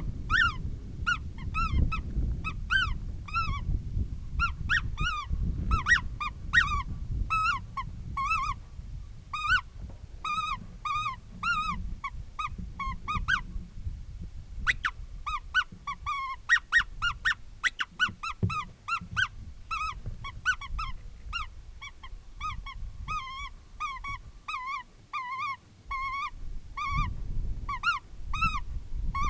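Woodpecker distress sound played through a FoxPro electronic predator caller: a steady string of short, squealing notes, each rising then falling in pitch, about two to three a second, with a brief pause about halfway through.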